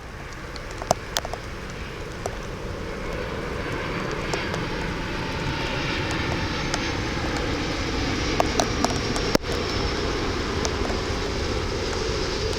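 Jet airliner engines, a steady rushing noise that grows louder over the first several seconds and then holds, mixed with wind noise. Scattered sharp ticks are heard on top.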